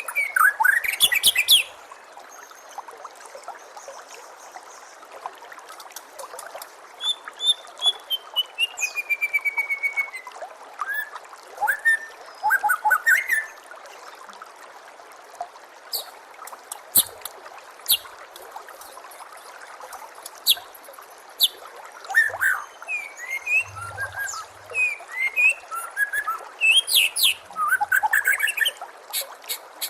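White-rumped shama singing: bursts of varied clear whistles, a long slurred falling whistle, sharp chips and quick trills, over a steady trickle of running water.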